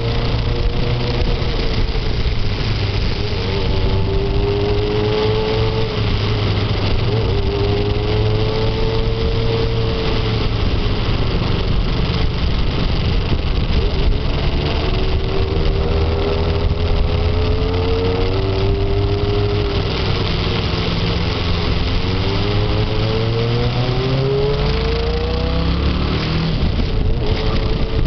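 Motorcycle engine running under way, its pitch rising and falling again and again as the throttle and gears change, over a steady rushing hiss.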